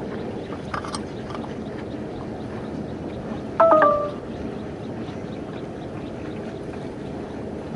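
An engine running steadily, with a short, loud beep about three and a half seconds in.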